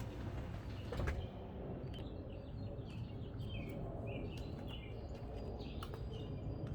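Small birds chirping in quick short calls over a steady low rumble, with a single knock about a second in.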